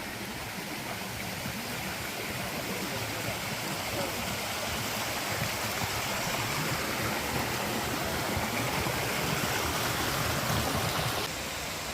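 Rushing water of a waterfall-fed stream, a steady hiss that grows gradually louder and drops suddenly near the end.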